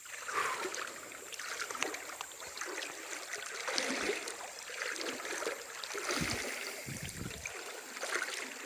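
Someone wading through knee-deep creek water, with irregular sloshing and splashing around the legs. A few low thumps come about six to seven seconds in.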